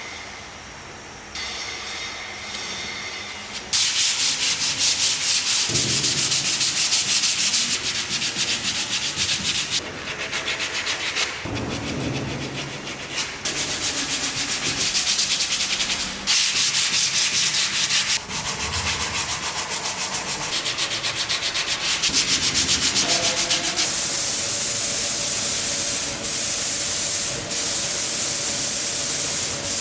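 Sandpaper rasping against the armchair's wooden frame, in repeated stretches separated by brief pauses. It is quieter for the first few seconds, then loud.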